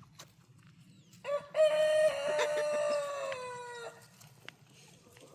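A rooster crowing once, a long call lasting about three seconds that drops slightly in pitch as it trails off.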